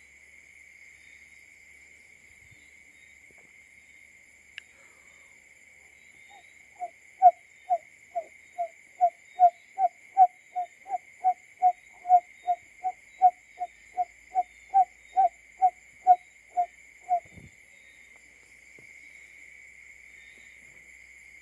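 Barred buttonquail call, given as the male's: a series of about twenty-five short, low hoots, a little over two a second, lasting about ten seconds. A steady high insect drone runs beneath it.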